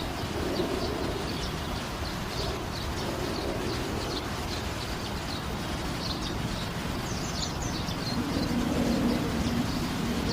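Small birds chirping: many short, high chirps scattered through, with a quick cluster a little past the middle, over a steady low background rumble. A low hum grows louder near the end.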